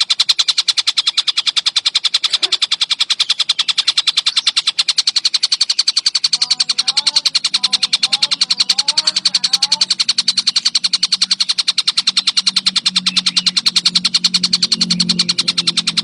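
Collared kingfisher (tengkek buto) calling in a rapid, tightly packed run of sharp, evenly spaced high notes, many a second, without a break.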